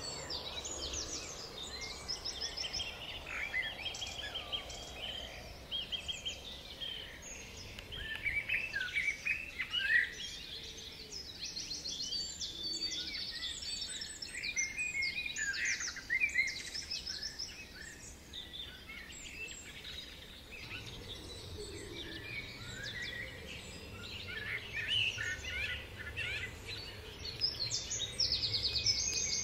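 Several small songbirds singing at once, a dense mix of short chirps and fast trills, over a faint low background rumble.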